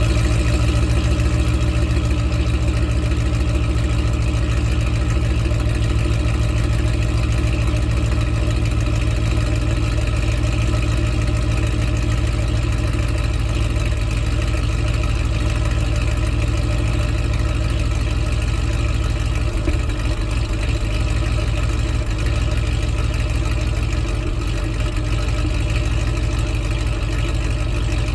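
2004 Mercedes-Benz E55 AMG's supercharged V8 idling steadily after a cold start, through long-tube headers, a midpipe and CLS55 mufflers.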